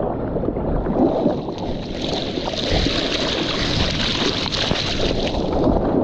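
Ocean water washing and splashing, with wind rushing on the microphone.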